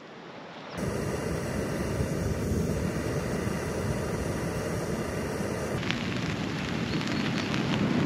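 A steady rushing noise, then from about six seconds in rain pattering on a nylon tent fly overhead, with single drops tapping on the fabric.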